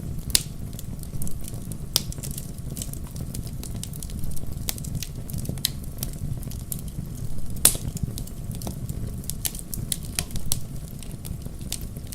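Wood fire burning in a fireplace: a steady low rumble of the flames with irregular sharp crackles and pops, one louder pop about two-thirds of the way through.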